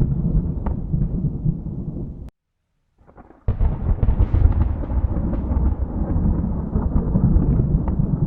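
Thunder rumbling low, which cuts out abruptly about two seconds in. After a second of silence a new clap of thunder breaks sharply about three and a half seconds in and rolls on as a long, deep rumble.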